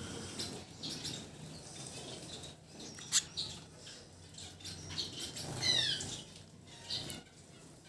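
Baby finch chirping with short high calls and fluttering its wings while being hand-fed, with a louder falling chirp near the end and a few sharp clicks.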